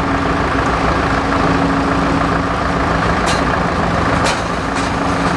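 Engine running steadily at an even speed, with two sharp metallic clicks about three and four seconds in.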